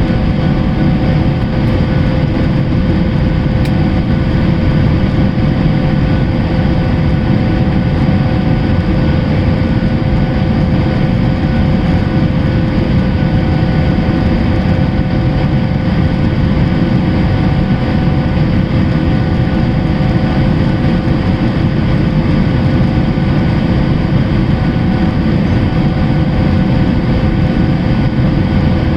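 Boeing 737-800 with its CFM56 turbofan engines running in flight: a loud, steady rumble of engine and airflow noise with a few faint steady hum tones above it, unchanging the whole time.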